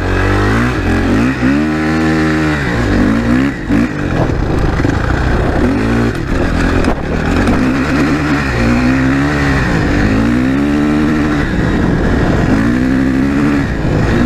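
Suzuki RM-Z 450 dirt bike's four-stroke single-cylinder engine under way, its pitch rising and falling over and over as the rider opens and rolls off the throttle.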